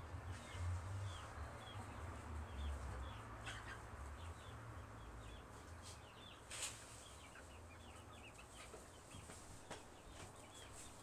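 A chicken making faint, soft calls: many short, high, falling chirps several times a second over a low rumble, with a couple of sharp clicks.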